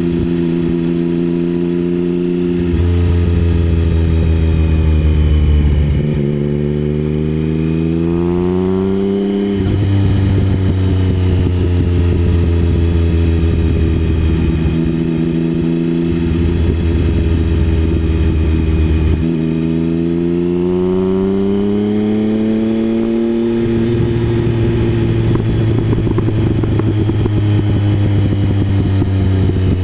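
Triumph Speed Triple 1050's inline-three engine through a Mivv exhaust, riding along at steady engine speed and twice accelerating with a rising pitch: about six seconds in, ending in a sudden drop at a gear change, and again about twenty seconds in.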